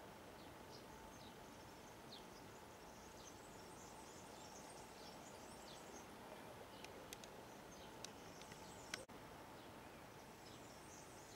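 Faint outdoor ambience with small birds chirping and twittering over a steady hiss. A few sharp clicks come about seven to nine seconds in, the last the loudest.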